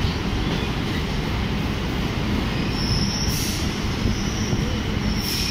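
Chennai MRTS electric suburban train running, heard at its open doorway: a steady rumble and rattle of the wheels and carriages. A thin, high-pitched wheel squeal comes in about halfway through and again near the end as the train takes the curve along the platform.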